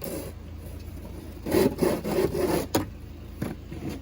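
Rough scraping and rubbing sounds, loudest in a burst from about a second and a half in that ends in a sharp knock, with a shorter scrape near the end.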